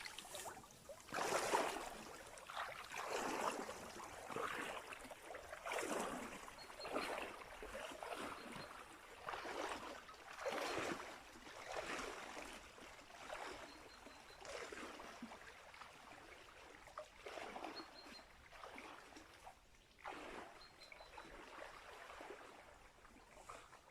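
Water sloshing and splashing in a shallow, rocky stream bed as it is dug into for a metal detector signal, in irregular surges every second or two. Faint short high beeps from the metal detector come now and then.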